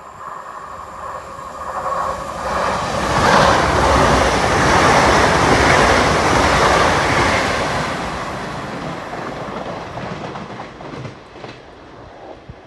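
Hitachi Class 800 bi-mode train running on its diesel engines, passing through a station: a rush of wheel and engine noise that builds about two seconds in, is loudest as the carriages go by, then fades as it draws away.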